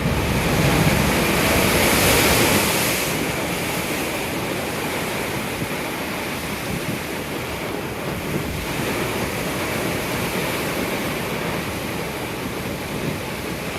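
Big ocean waves breaking and washing over a rock pool, loudest in the first three seconds, then a steady surf wash. Wind buffets the microphone throughout.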